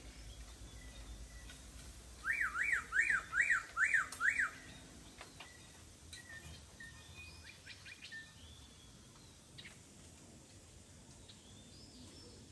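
A bird calling a loud series of six quick whistled notes, each sliding up and back down, with fainter chirps from other birds before and after.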